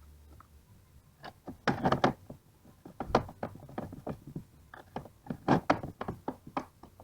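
Irregular knocks and taps of hand work on a disassembled car alternator, some close together in quick runs, the loudest about two seconds and five and a half seconds in.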